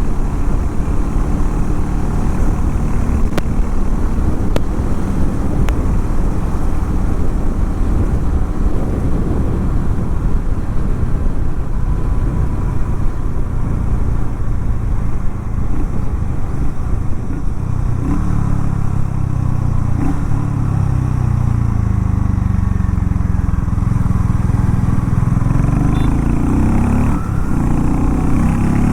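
Harley-Davidson X440 T's single-cylinder engine running steadily. Through the second half its pitch rises and falls as the engine speed changes.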